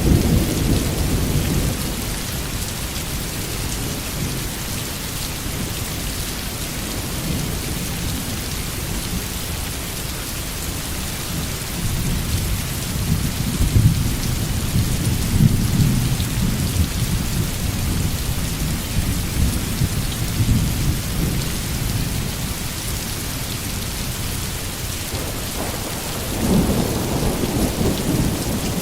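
Steady heavy rain with rolling thunder: a low rumble that eases off in the first couple of seconds, rumbles again from about 12 to 21 seconds in, and swells once more near the end.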